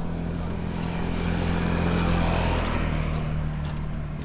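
A motor vehicle passing close by: a steady engine hum with tyre and road noise that swells to a peak about halfway through, then fades.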